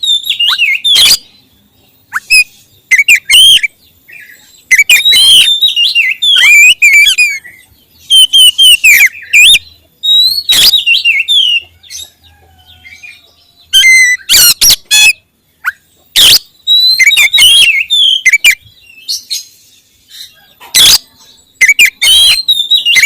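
Oriental magpie-robin (kacer) singing loudly at close range in bursts of varied whistled phrases, many with falling notes, broken by short pauses.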